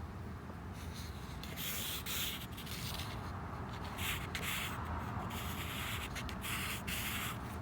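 Pen scratching across paper while sketching, in short, irregular strokes of varying length.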